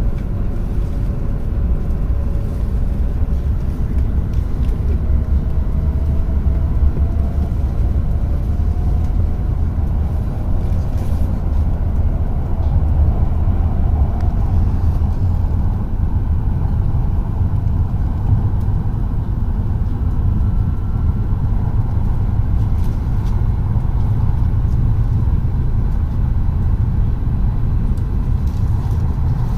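Tohoku Shinkansen train running at speed, heard from inside the passenger cabin: a steady low rumble with a few faint gliding whines.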